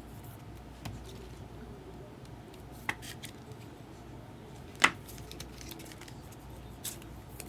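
Baseball cards and their packaging handled on a table: a low rustle with four sharp clicks about two seconds apart, the third much the loudest.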